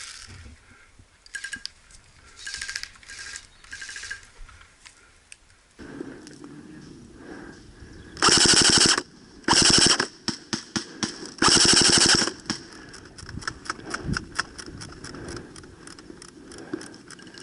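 Airsoft electric guns firing on full auto. There are several faint short bursts early on, then three loud rattling bursts in quick succession about halfway through, followed by scattered fainter shots.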